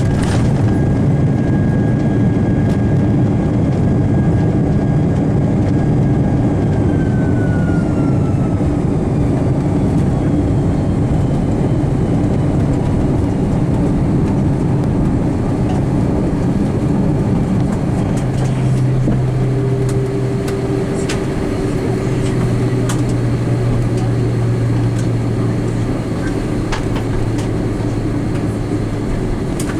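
Cabin noise of an Airbus A330-300 on the runway after touchdown: loud rumble of the engines and wheels, with a high engine whine that winds down in pitch about seven seconds in. From about eighteen seconds a steady low hum sets in, with scattered light knocks.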